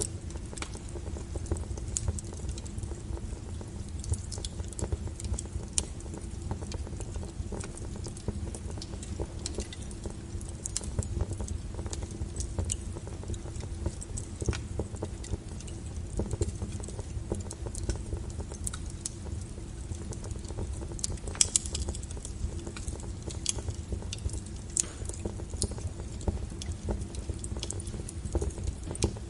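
Wood fire burning with a steady low rumble of flames and frequent irregular crackles and pops from the burning firewood, a few louder snaps about two-thirds of the way through.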